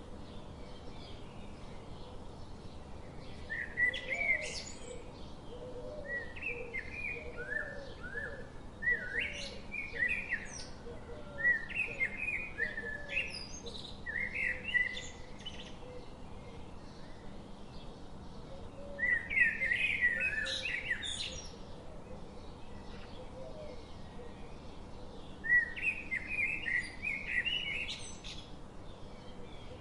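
Bird chirping in several bursts of quick, high notes, over a steady background hiss.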